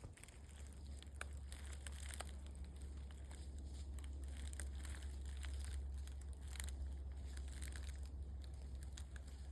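Slow, careful footsteps crunching and crackling in dry leaf litter, scattered soft crackles throughout, over a steady low rumble.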